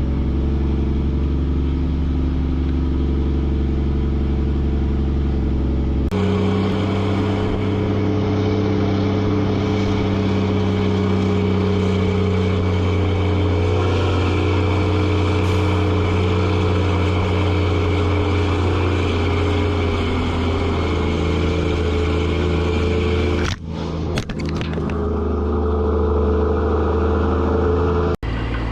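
Mack truck's diesel engine running steadily under load while hauling a loaded lowboy. Its sound changes abruptly about six seconds in, and it dips briefly twice near the end.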